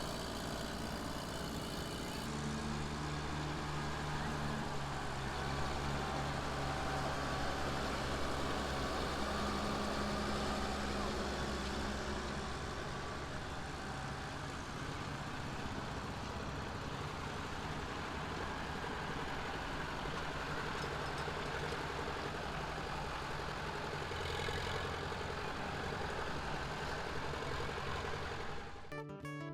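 Engine running steadily at idle, with a change in its sound about two seconds in.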